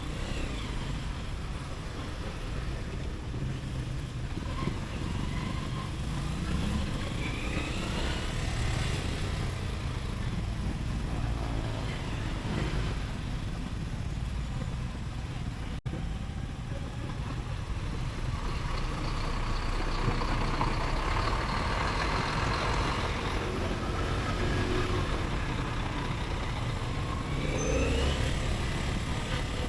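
Motorcycle riding through city traffic: a steady low rumble of engine and road, with the engine's pitch rising several times as the bike accelerates. Other traffic passes around it, with a louder, noisier stretch a little past the middle.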